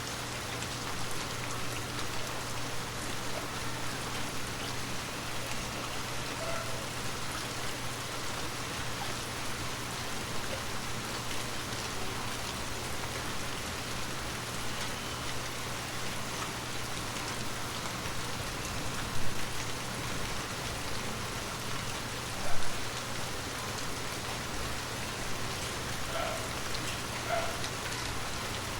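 Heavy rain falling steadily, a dense even hiss of drops on surfaces, with a low steady hum underneath. Two brief louder knocks stand out about two-thirds of the way through.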